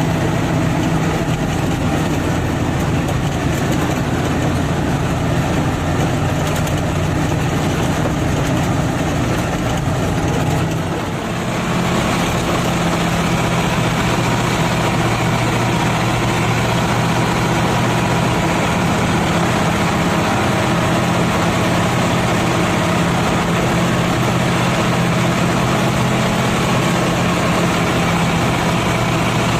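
Diesel engine of a Nissan TZA 520 dump truck running steadily with a low, even note. About eleven seconds in it briefly drops in loudness, then settles into a steadier note.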